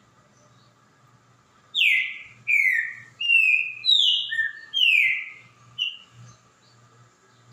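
Green-winged saltator (trinca-ferro) singing one phrase of about seven loud, clear whistled notes, most of them sliding downward in pitch. The phrase starts about two seconds in and ends around six seconds.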